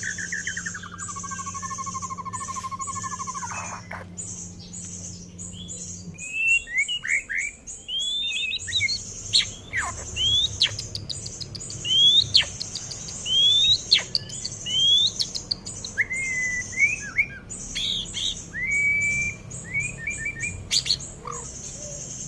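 A young white-rumped shama, about six months old, singing. Its song opens with a fast warbling trill that slides down in pitch over the first few seconds, then runs into a string of short, clear whistled notes that sweep up and down. A steady high-pitched hiss sits behind it throughout, and a low hum stops about six seconds in.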